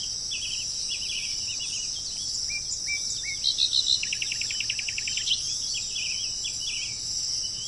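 Small birds chirping and whistling, with a fast trill of about a dozen notes about four seconds in, over a steady high buzz of insects.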